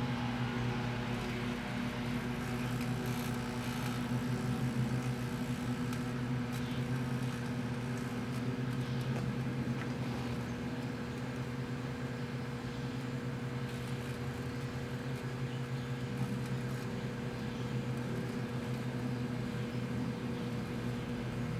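Two Proctor-Silex microwave ovens running at once: a steady electrical hum with a few faint ticks.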